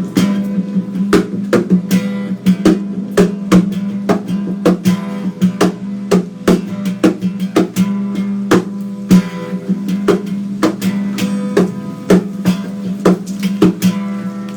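Acoustic guitar being played in a quick rhythm, sharp strummed strokes over a steady low ringing note.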